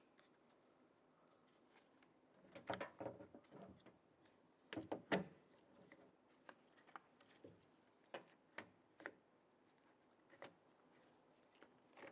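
Door lock actuator cover being pried off with a small flat screwdriver: a cluster of clicks and scrapes about two and a half seconds in, a louder cluster around five seconds in, then scattered light clicks.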